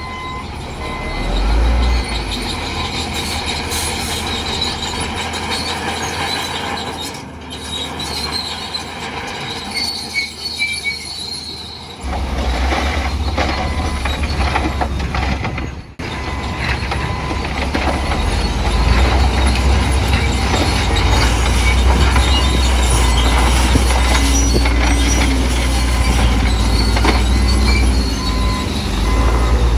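Heavy earthmoving machinery at work: a bulldozer's diesel engine under load with the squealing and clanking of its steel crawler tracks. The low engine rumble drops out and then comes back louder about twelve seconds in.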